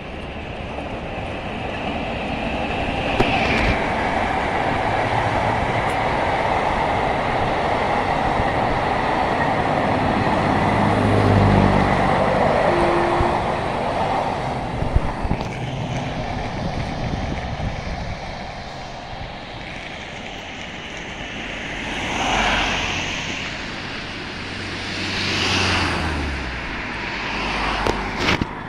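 Electric locomotive-hauled passenger train passing, its running noise building to a peak about eleven seconds in and then fading away. Later, cars pass close by on the road three times, each a short swell of noise.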